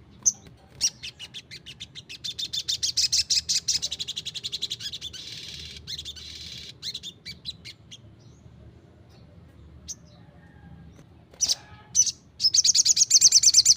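Little spiderhunter (sogok ontong) singing: fast runs of high, sharp chirps repeated many times a second, in two long bouts with a few single chirps between.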